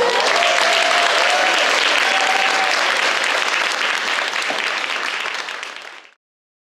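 Audience applauding and cheering, with a few high whoops over the first few seconds; it cuts off suddenly about six seconds in.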